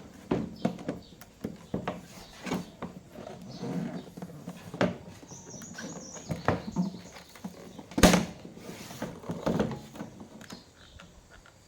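Irregular small clicks and knocks of hard objects being handled, with one louder knock about eight seconds in.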